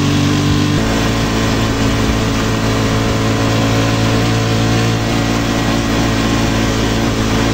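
Motorcycle engine running steadily under way, its note shifting about a second in, over steady wind and road noise.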